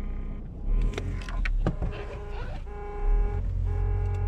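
Inside a car, over the low hum of the running car, a few clicks sound near the start. From about two and a half seconds in, an electronic chime starts and repeats on and off at an even pace.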